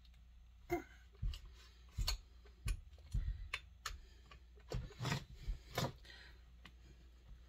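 About a dozen irregular clicks and knocks from tools and chainsaw parts being handled and fitted, over a faint low hum.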